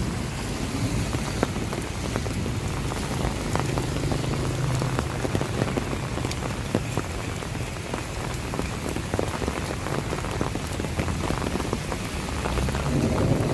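Steady rain, with many separate drops ticking sharply close by, over a low steady rumble.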